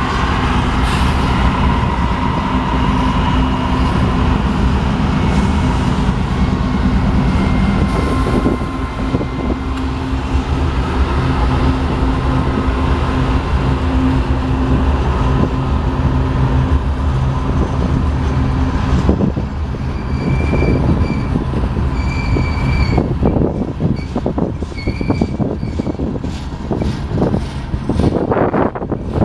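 Union Pacific grain train rolling past: a steady heavy rumble of freight cars on the rails, with a low drone that stops about two-thirds of the way through. After that come short high wheel squeals, and a run of sharp clicks near the end.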